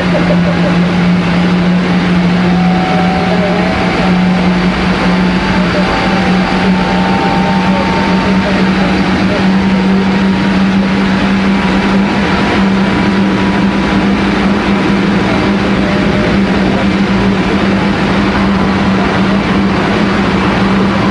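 Kintetsu 1420 series electric train running at a steady speed, heard from inside the car: a steady low hum over continuous wheel-on-rail rumble.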